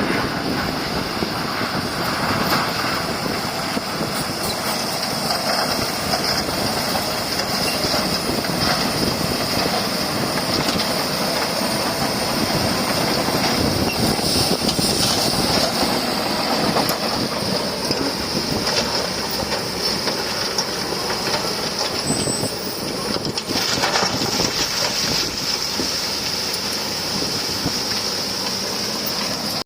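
Bulldozer at work: diesel engine running steadily with its steel crawler tracks clanking and squealing.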